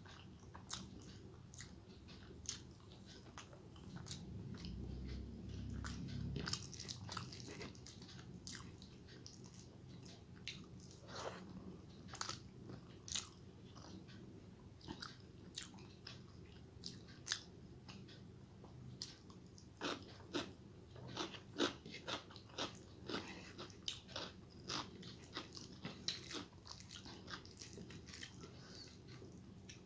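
Close-miked chewing and mouth sounds of a person eating rice mixed with egg curry by hand: repeated short wet clicks and smacks, denser and louder in the second half, with a low rumble about five seconds in.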